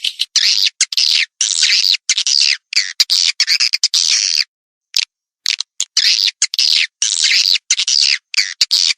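Swiftlets twittering and chirping in quick bursts about half a second long with short gaps, broken by a full second of dead silence about halfway through. It is a recorded swiftlet lure call, the kind played from a swiftlet house to draw the birds in to roost and nest.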